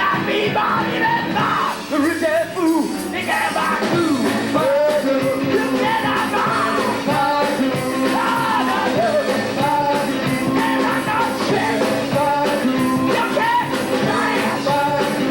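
A rock band playing, with a singer's voice over the band.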